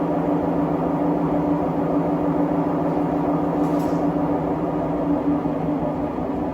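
Siemens WM14T490 washing machine drum spinning at speed, a loud, steady rumbling drone with a hum running through it: the grinding of worn-out drum bearings.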